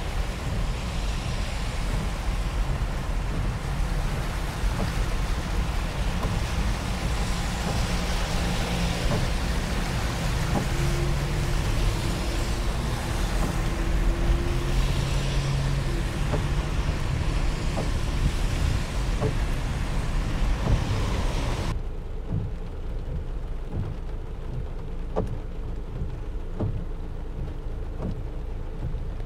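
Heavy rain falling with a constant low rumble underneath. About three-quarters of the way through the rain hiss drops off sharply, leaving the rumble and separate drops ticking.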